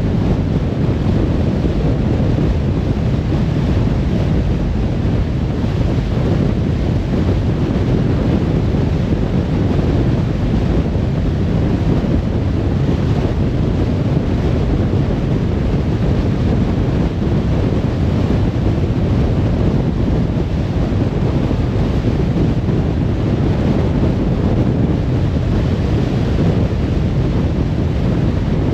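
Car driving on a motorway: steady road, tyre and wind noise, a low even rumble with no breaks.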